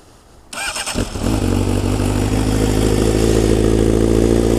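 A 2013 Honda CBR600F's inline-four, breathing through a Scorpion Serket silencer on a Black Widow header, is started: the electric starter cranks briefly about half a second in, the engine catches about a second in, then it settles into a steady tick-over.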